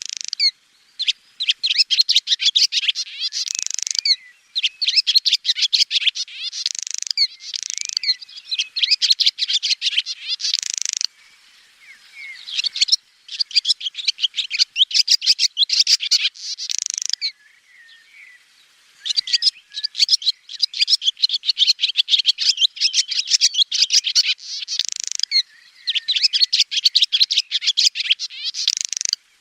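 Swallow twittering: long runs of rapid, high chirps in bouts of a few seconds, broken by a couple of short pauses.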